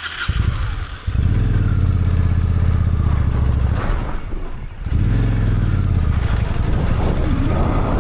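Honda Shadow VT1100 V-twin motorcycle engine running under way. Its note drops off briefly about a second in and again around four seconds in, then picks back up and runs steadily.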